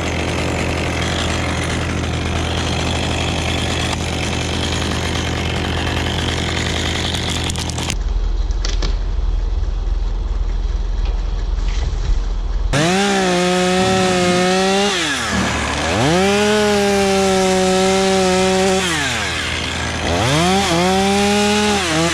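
Stihl two-stroke chainsaw revved up to full throttle and held three times in the second half, dropping back between each run, as in cutting. Before that there is a steady mechanical engine drone.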